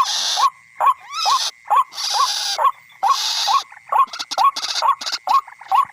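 White-breasted waterhen calls repeating as a lure: a short rising, hooked note about twice a second, with bursts of hiss in between.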